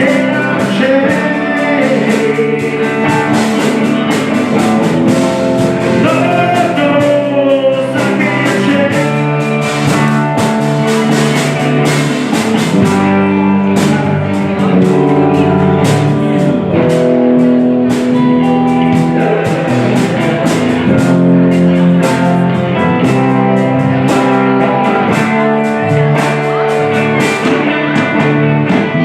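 Rock music led by guitars over drums, with some bending guitar or vocal lines.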